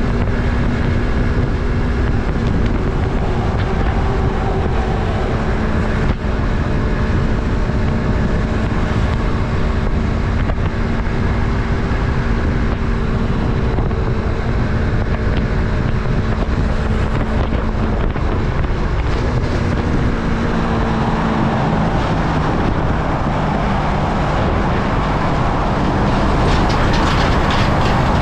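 Yamaha MT-03's parallel-twin engine running at steady speed while riding, with wind rushing on the microphone. The engine note changes pitch about two-thirds of the way through, and the wind noise grows louder after that.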